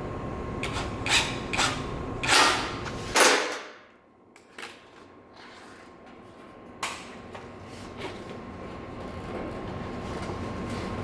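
Four or five loud knocks and bangs of workshop bodywork in the first few seconds, over a steady machine-like background noise that cuts off suddenly about three seconds in. After that it is quieter, with a single sharp click near the middle.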